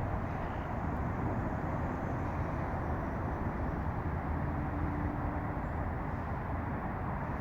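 Steady rumble of vehicle noise, with a faint steady tone joining in briefly about two-thirds of the way through.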